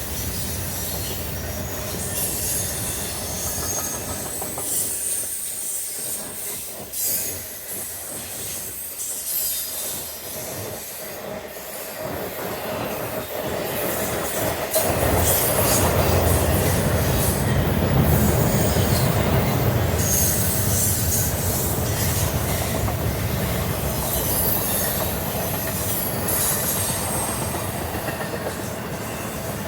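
Norfolk Southern intermodal freight train's cars rolling past at speed, steel wheels running on the rails with a continuous rumble. It grows louder about halfway through.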